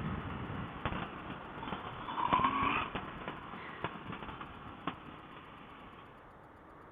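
Muffled motorcycle riding noise, wind and engine, heard through a helmet intercom microphone, with a few faint clicks; it fades near the end.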